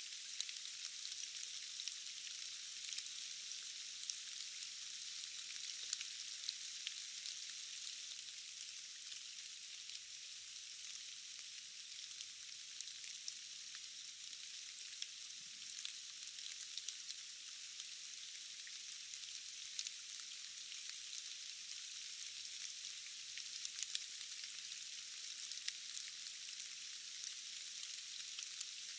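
Steady forest rain: an even, high hiss of falling drops with scattered sharp drip ticks, and no deep rumble beneath it.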